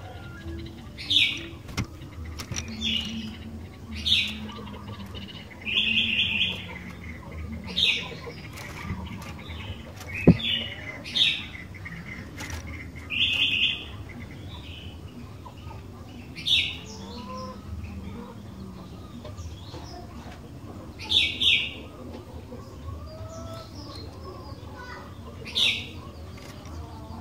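Sooty-headed bulbul (kutilang) calling: short, loud, bright chirping phrases repeated every second or two, a few drawn out to about a second, over fainter chirps. One sharp click near the middle.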